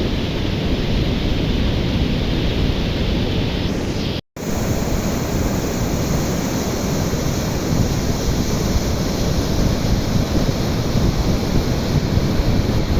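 Swollen flood river rushing, a loud steady wash of water noise. It is broken by a split-second gap about four seconds in.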